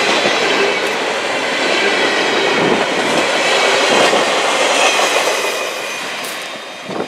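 Train of empty flatcars rolling past on steel rails, a steady wheel-on-rail noise that falls away near the end as the last car goes by.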